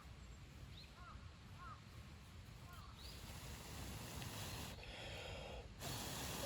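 Faint short chirping calls of a small animal, about five in the first three seconds, over a low rumble. A soft hiss swells near the end.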